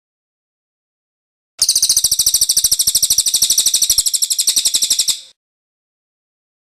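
Cililin (velvet-fronted nuthatch) giving one rapid, even rolling trill, about three and a half seconds long, that starts about one and a half seconds in and cuts off sharply.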